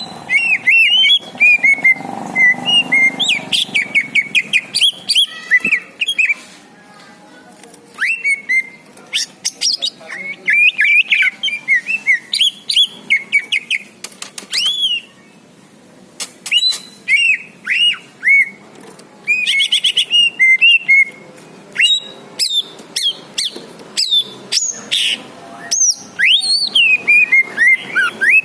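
Greater green leafbird (cucak ijo) singing: quick, loud whistled notes and chirps in phrases of a few seconds, broken by short pauses.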